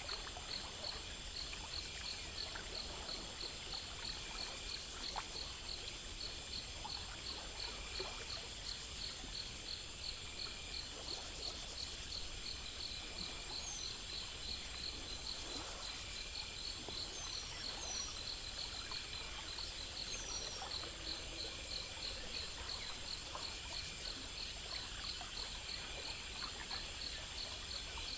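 Night insect chorus: crickets chirping in regular pulses, about three a second, over a steady high insect trill, with a few short falling chirps now and then.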